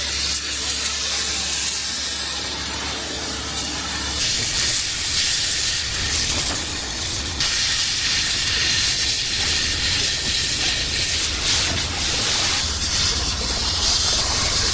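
Diesel engine of a heavy rotator tow truck running, its low rumble turning uneven about four seconds in, under a steady hiss.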